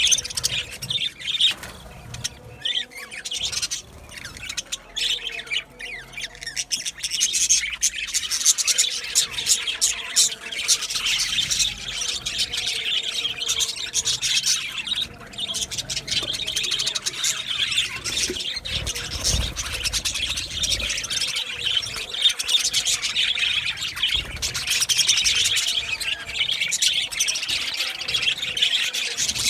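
A colony of budgerigars (budgies) chattering and chirping continuously, many birds at once, with scattered sharp clicks among the calls.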